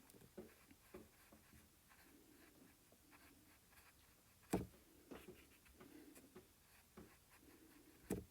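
Faint scratchy strokes of a paintbrush laying acrylic paint, with two sharp taps, one about four and a half seconds in and one near the end.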